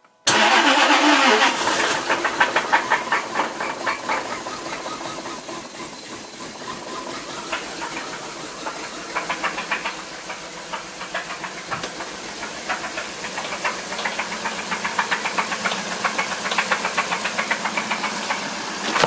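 A 4-litre V8 engine running, loudest for the first second or two and then settling, with a rapid ticking and a hiss throughout.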